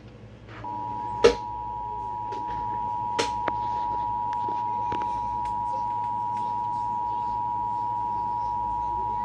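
Emergency Alert System attention signal: a steady two-tone alert tone that comes in about a second in and holds unbroken, heard through a radio speaker over a low hum. Sharp clicks sound about a second in and again about three seconds in.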